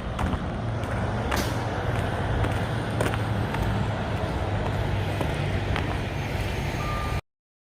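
Semi-truck's diesel engine running with a steady low rumble, a few sharp clicks over it; the sound cuts off abruptly about seven seconds in.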